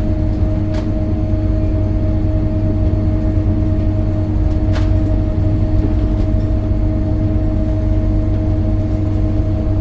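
Scania K270UB city bus's engine running at a steady speed, a deep even hum with no rise or fall in pitch, with two faint ticks about a second and about five seconds in.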